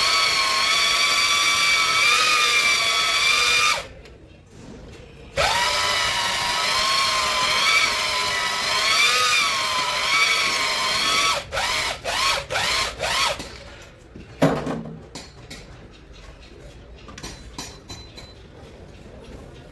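Electric drill spinning a cylinder hone in a Cummins 6BT diesel cylinder bore, its whine wavering slightly in pitch. It runs for about four seconds, stops, then runs for about six seconds more. A few short bursts follow, then a single knock.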